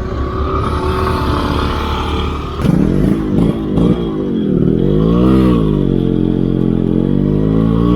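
Yamaha RX 135's two-stroke single-cylinder engine running, its pitch rising and falling with the throttle, with a short rev up and back down about halfway through.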